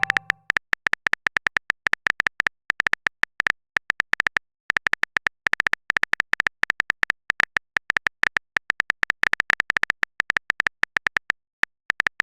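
Typing sound effect: rapid, uneven clicks, several a second, in runs with short pauses between them, as a text message is typed out.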